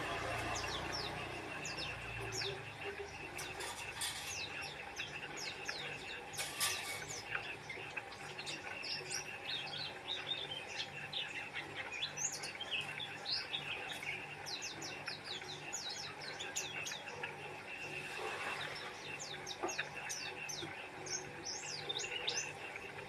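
White-eye (pleci) singing vigorously: a continuous, rapid run of short, high chirps and sweeping notes with barely a pause.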